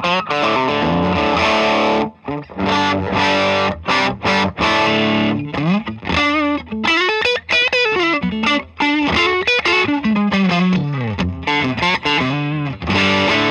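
Electric guitar played through an overdriven Songbird Redtail amplifier: distorted chords with short breaks between them, then from about halfway through single lead notes bent up and down with vibrato.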